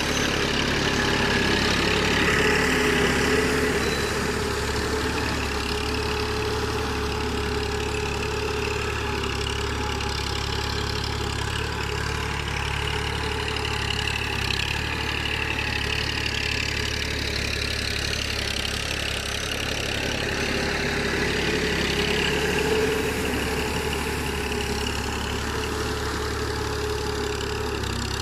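TAFE 45 DI tractor's diesel engine running steadily, its note swelling slightly twice.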